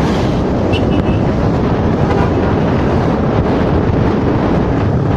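Steady wind noise buffeting the microphone, over a low vehicle rumble.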